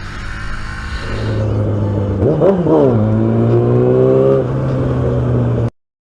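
A vehicle engine running, revved up and straight back down once about two seconds in, then holding a steady, higher drone. It cuts off suddenly near the end, leaving silence.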